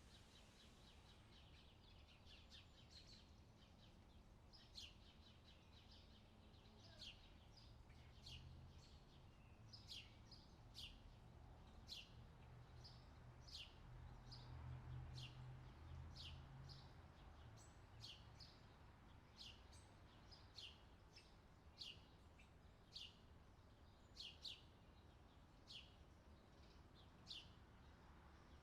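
Faint birdsong: short high chirps, then a long run of quick, high, downward-sweeping notes, about one or two a second. A faint low rumble swells and fades in the middle.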